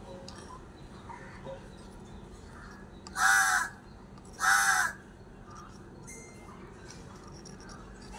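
A bird calls loudly twice, a little past three seconds in. Each call is a harsh, half-second call, and the two come just over a second apart.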